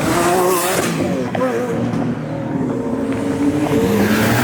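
A car accelerating hard away from a standstill, its engine revving up with the pitch climbing and dropping at gear changes.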